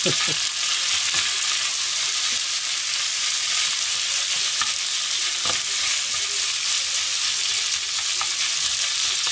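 Leftover yakisoba and fried rice sizzling steadily in a frying pan as they are stirred and turned with a slotted turner, with a few light taps of the turner against the pan.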